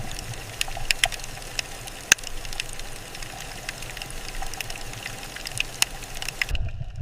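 Water ambience: a steady hiss full of scattered sharp crackling clicks over a low rumble. About six and a half seconds in it switches abruptly to a duller, muffled low rumble with the crackle gone.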